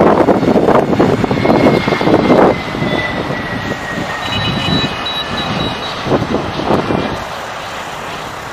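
Jet airliner engine noise: a loud rush for the first two and a half seconds, then easing, with a thin engine whine falling slowly in pitch.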